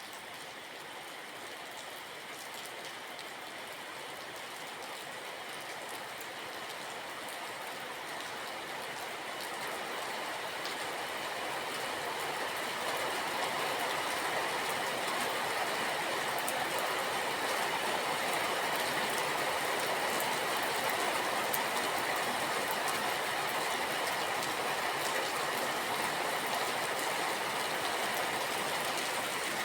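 Steady rain, an even hiss with faint scattered drop ticks, growing louder over the first dozen seconds and then holding level.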